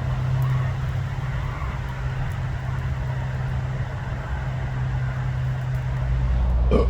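Steady low rumble of expressway traffic, with no single vehicle standing out.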